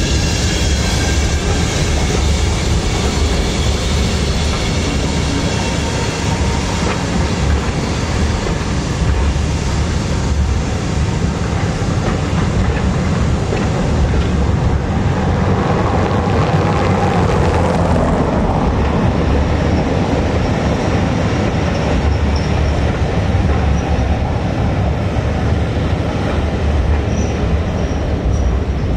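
Train of BR Mk1 passenger coaches rolling past, a steady, loud rumble of wheels on rail. Thin high squealing tones sound in the first few seconds and again near the end.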